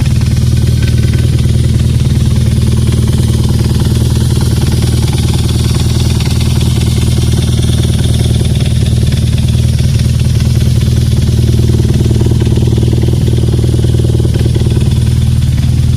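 BMW R nineT's 1170 cc boxer twin idling steadily through an Akrapovič exhaust.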